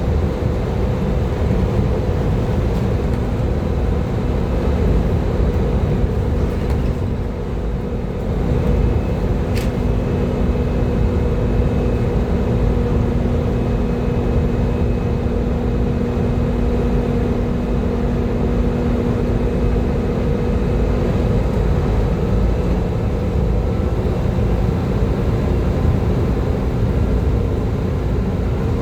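Volvo B7TL bus's straight-six diesel engine running under way: a steady drone with a high, vacuum-cleaner-like whine (the "hoover" sound). The drone dips briefly about seven seconds in, and there is a single click near ten seconds.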